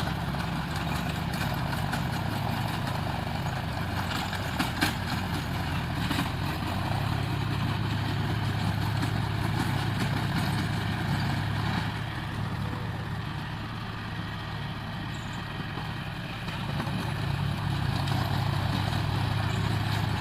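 John Deere 5050 D tractor's three-cylinder diesel engine running steadily, with a couple of sharp knocks about five seconds in and a dip in level for a few seconds past the middle.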